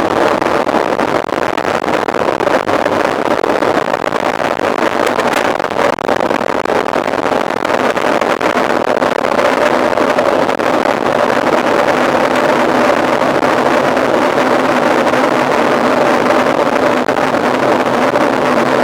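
Mountain bike ridden at speed: wind rushing over the microphone and a steady droning tyre hum.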